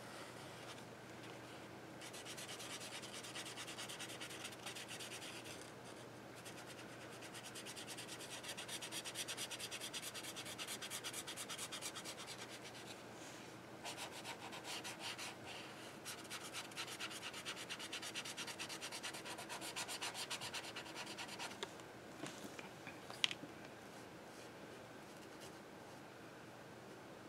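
Posca paint marker rubbing back and forth on journal paper in quick, even strokes, coloring in a small area, in three stretches with short pauses between. A single sharp click comes near the end.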